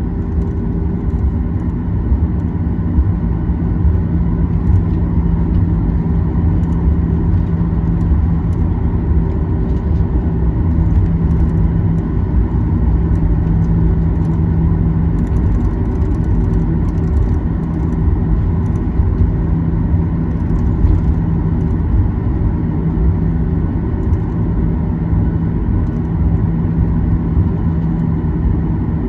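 Cabin noise of a Boeing 737-800 taxiing: the CFM56-7B turbofans running at low taxi power with a steady hum, over a continuous low rumble.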